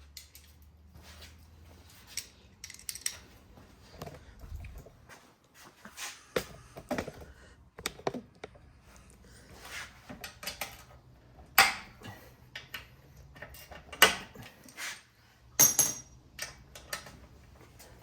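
Scattered metallic clinks and knocks of tools, bolts and sheet-metal parts being handled on a lawnmower engine during disassembly, with a few sharper knocks past the middle.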